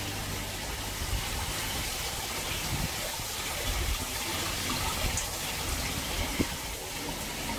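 Water falling steadily from a garden pond's cascading waterfall into the pond, a continuous splashing hiss, with one brief click near the end.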